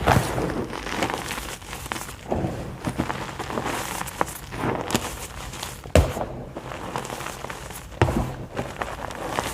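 Blocks of white gym chalk being crushed, a soft irregular crunching and crumbling with a few sharper cracks, the loudest near the start, about six seconds in and about eight seconds in.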